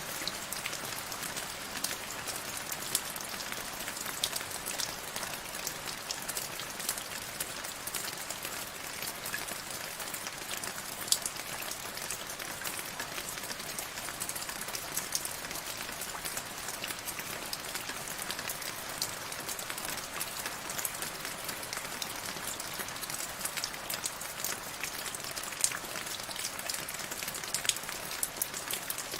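Steady rain falling, a dense hiss with many sharp individual drop ticks on a hard surface, a few of them louder.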